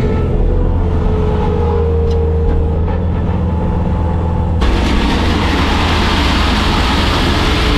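Bobcat skid steer's diesel engine running steadily. About halfway through, a loud, even rushing noise starts abruptly over the engine and carries on to the end.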